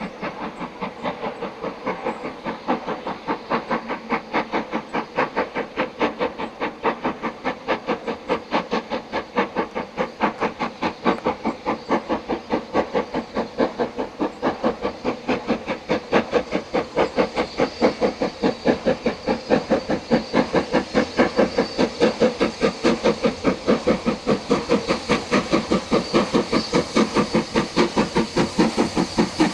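Two steam locomotives double-heading a train up a steep 1 in 49 gradient, their exhaust beats chuffing fast and even, about three a second, as they work hard on the climb. The beats grow steadily louder as the train comes closer.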